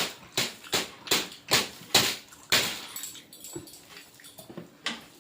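Sharp, wet clicks and knocks from eating a meal, about two a second, with the loudest about two and a half seconds in and fainter ones after.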